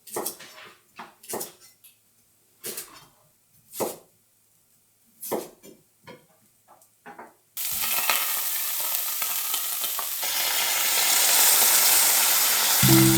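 Short scattered scrapes and knocks of a utensil in a pan, then about seven and a half seconds in a sudden loud, steady sizzle of meat and vegetables frying in an iron pot over a campfire.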